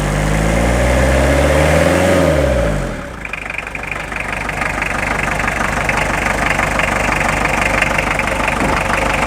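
Toyota Noah CR42 diesel engine being revved, its pitch rising and falling, then dropping back to idle about three seconds in and idling with a steady diesel clatter. The sound is fairly good, a sign of a healthy engine.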